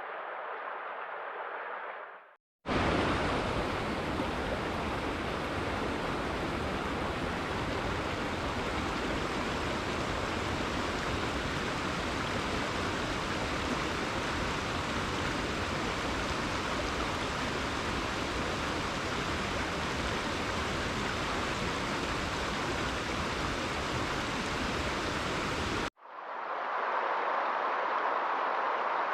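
Steady rushing water noise, an even hiss without the rise and fall of individual waves. It breaks off abruptly twice: a short dropout about two and a half seconds in, then a hard cut near the end to a duller, narrower hiss.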